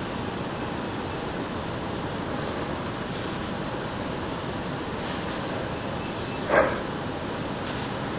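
Spring woodland ambience: a steady rushing background with faint, high songbird chirps and a thin whistle in the middle, and one short, sharp sound about six and a half seconds in that stands out as the loudest.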